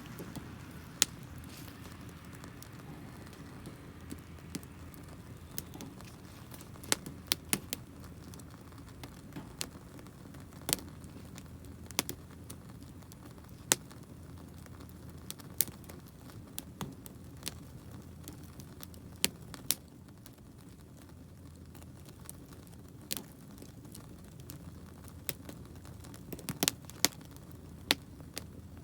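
Wood campfire crackling, with sharp irregular pops from burning firewood, some of it damp, over a low steady background.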